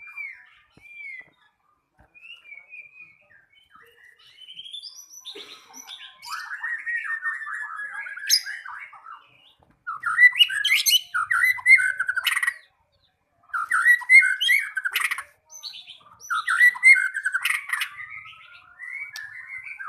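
White-rumped shama singing a varied song of whistles, trills and sharp chattering notes. It is soft and scattered at first, grows louder from about six seconds in, and is loudest from about ten seconds in, broken by two short pauses.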